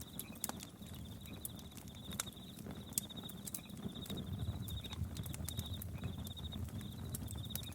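Campfire crackling with scattered sharp pops, over crickets chirping in short pulsed trills that repeat several times a second-and-a-half, and a steady low rumble underneath.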